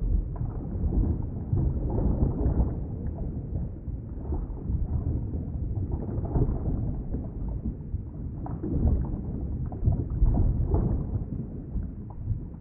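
Underwater ambience: a muffled, low, rumbling wash of moving water, rising and falling in level.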